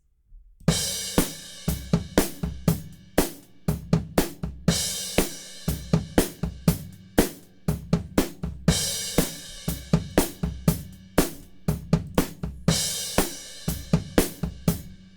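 Sampled acoustic drum kit from the BFD3 drum software playing a groove: kick, snare and hi-hat, with a cymbal crash about every four seconds. It starts a little under a second in and fades out near the end.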